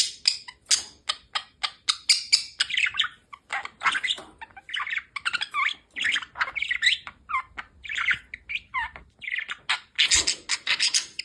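Budgerigar chattering: a fast, unbroken stream of short chirps, squawks and warbling notes that bend up and down in pitch, growing louder near the end.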